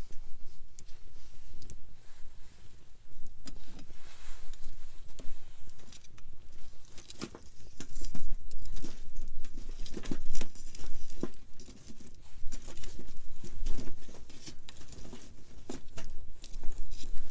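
Wood campfire crackling: a dense run of irregular sharp pops and snaps over a low steady rumble, busier and louder about halfway through.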